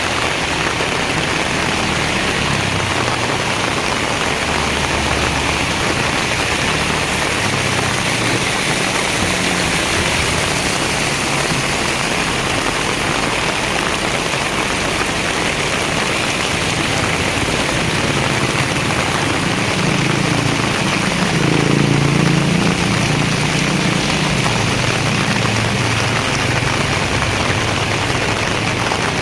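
Heavy rain pouring steadily. A low hum comes up and fades again about two-thirds of the way through.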